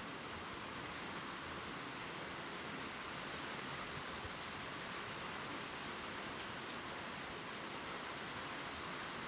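Steady gentle rain falling on leaves, an even patter with scattered individual drops ticking through it.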